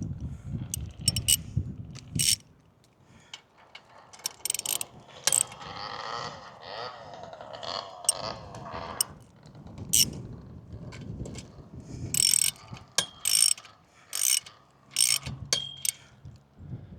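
Metal clicks and scraping from the hex beam's mast hardware being handled and turned by hand, with a stretch of rubbing about five to nine seconds in.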